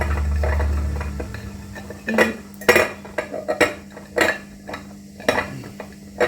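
Kitchen items being handled and set down: a string of separate knocks and clinks of dishes and containers, after a low rumble during the first second.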